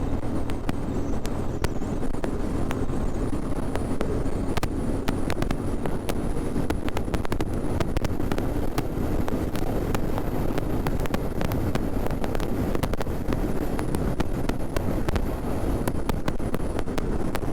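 Motorcycle running steadily at cruising speed on a road, its engine hum mixed with rushing wind and frequent small crackles on the microphone.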